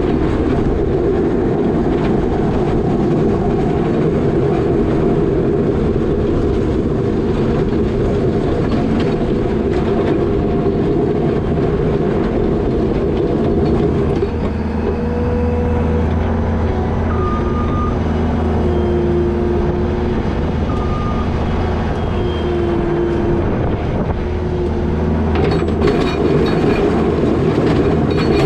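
New Holland L220 skid steer's diesel engine running hard while pushing wet snow with a box plow, a steady loud rumble. About halfway through it eases for several seconds, with a few short whines, then picks up again with some clanking near the end.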